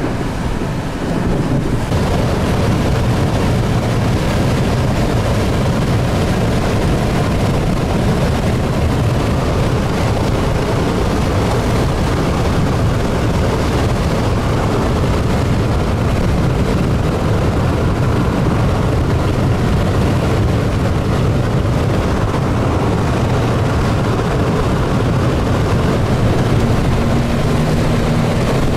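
Strong wind roaring steadily and buffeting the microphone, heaviest in the low range.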